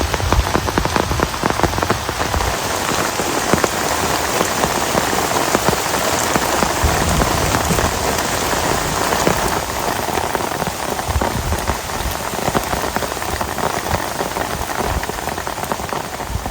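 Heavy rain falling steadily, dense drops pattering on a surface close to the microphone.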